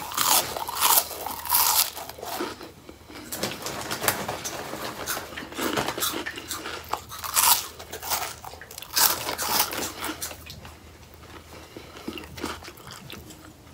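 Crunching and chewing of Hot Fries, crunchy corn snack sticks, close to the mouth. The crunches come in irregular clusters and thin out near the end as the mouthful is chewed down.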